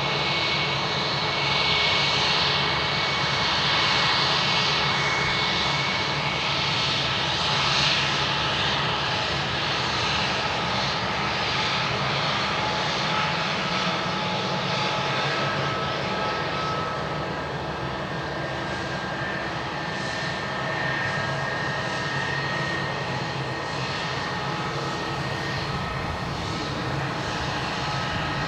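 Airbus A321 airliner's jet engines running steadily: a dense rushing roar with high whining tones. The whine shifts to lower notes about halfway through.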